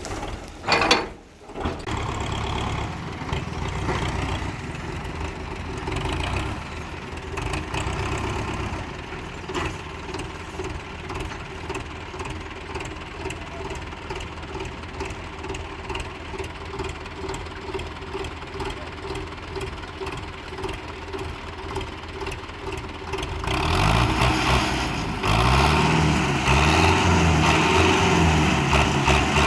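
Diesel tractor engine running steadily, then louder from about 23 seconds in, its pitch rising and falling as it is revved up and down repeatedly.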